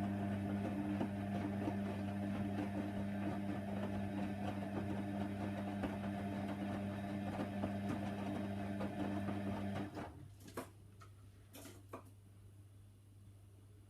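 Hoover Nextra HNWL 7146 washer dryer humming steadily; the hum stops abruptly about ten seconds in, followed by a few clicks.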